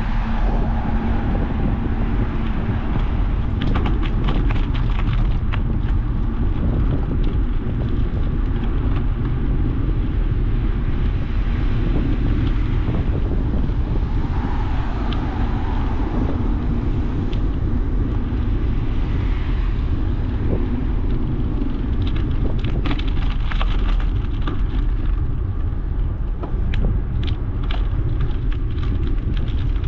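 Wind rumbling on the microphone of a camera on a moving bicycle, with scattered clicks and rattles from the bike, mostly in short clusters near the start and toward the end.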